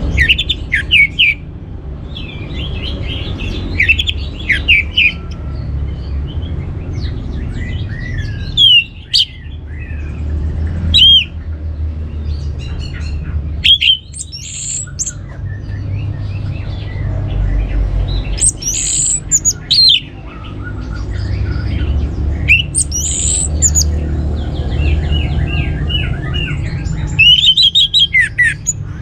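Orange-headed thrush (anis merah) giving clusters of short, gliding chirps and snatches of song, with a few higher, louder notes in the middle and latter part, over a steady low rumble. It is a teaser sound meant to set a male thrush singing.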